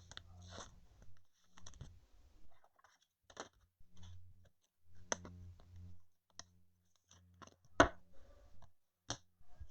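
Trading cards being handled and flipped through: scattered soft clicks, taps and brief sliding rustles, with one sharper tap about eight seconds in.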